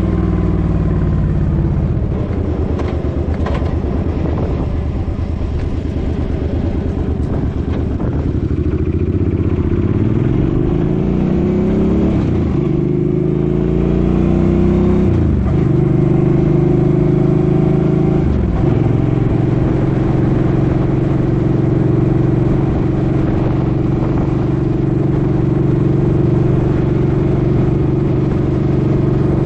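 Suzuki Boulevard M50 V-twin motorcycle engine under way: it slows at first, then accelerates up through the gears with three upshifts, each marked by a sudden drop in pitch, and settles into a steady cruise for the last ten seconds.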